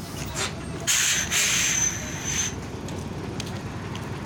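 Truck air brakes hissing: a loud hiss with a high whistle in it starts about a second in and lasts about a second and a half, over a steady low engine rumble.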